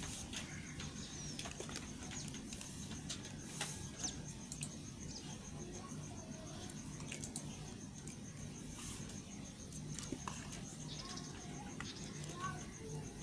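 Bar soap being cut and scraped with a knife: scattered short crisp scrapes and crackles, over a steady high chirring of crickets.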